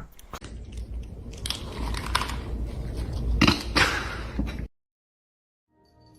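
Crunching, chewing noises with scattered sharp clicks, cutting off abruptly about three-quarters of the way through.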